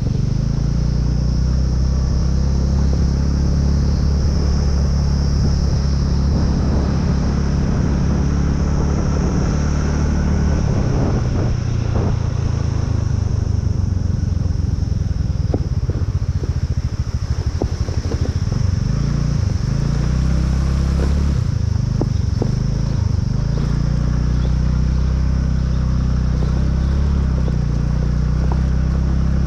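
Motorcycle engine running steadily as the bike is ridden. Its note shifts through the middle stretch, with a few sharp knocks and rattles, then settles again.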